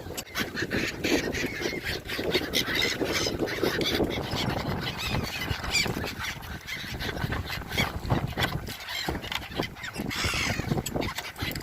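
A large flock of gulls calling non-stop, many short squawks overlapping, as they crowd in for food thrown to them.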